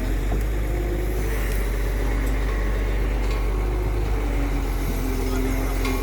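Excavator diesel engine running steadily with a deep, even rumble. Short whining tones at shifting pitches come and go over it.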